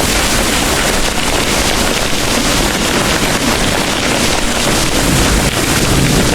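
Heavy rain pouring in a steady, dense hiss, with a low rumble of distant thunder swelling near the end.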